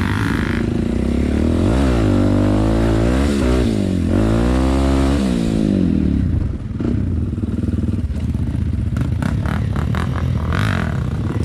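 Off-road motorcycle engine revving up and down repeatedly, then running at a steadier pitch from about six seconds in, with a few sharp clattering knocks near the end.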